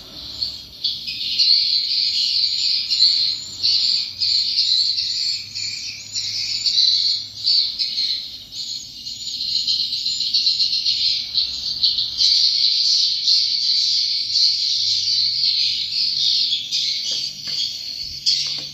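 Swiftlets calling in a dense, continuous chatter of high chirps and twitters.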